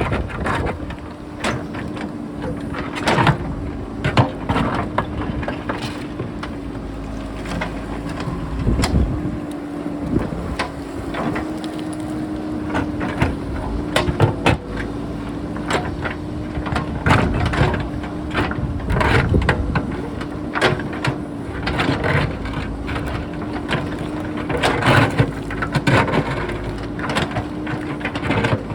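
JCB backhoe loader's diesel engine running with a steady drone while loose rock clatters and knocks again and again as the bucket cuts into the rocky hillside. Wind buffets the microphone at the start.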